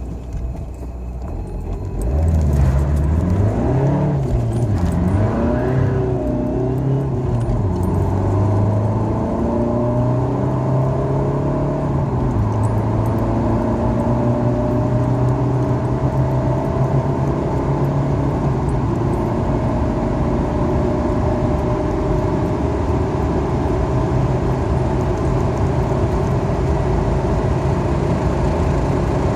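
Seat Leon 1M's chipped 1.9 TDI (ARL) four-cylinder turbodiesel accelerating hard: the engine note rises and drops with several quick upshifts in the first seven seconds or so, then climbs slowly and steadily in a high gear.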